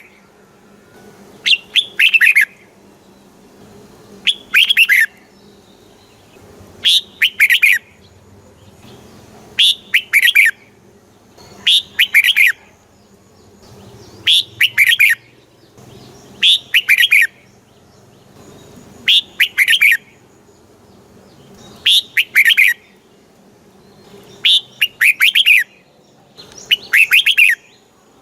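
Red-whiskered bulbul singing short, bright, chirpy phrases, about one every two and a half seconds, each much like the last. This is the song played to caged bulbuls to rouse them.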